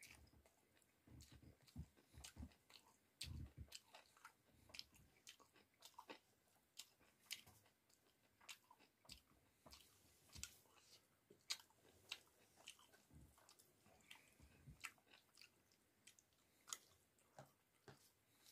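Quiet close-up chewing of a mouthful of rice and cauliflower curry: soft wet mouth clicks and smacks, with a few low thumps in the first few seconds.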